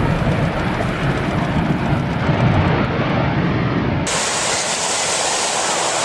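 Loud storm noise: a low rumbling roar, then about four seconds in an abrupt switch to a steady high rushing hiss.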